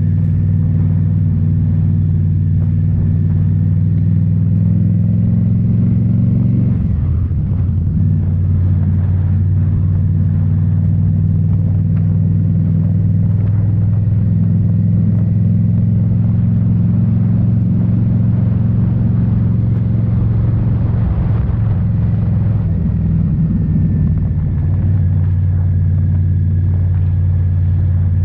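2018 Indian Scout Bobber's V-twin engine running through Rinehart slip-on mufflers, holding a steady note under way. The engine note briefly breaks and changes about seven seconds in, and wavers again a little past the middle.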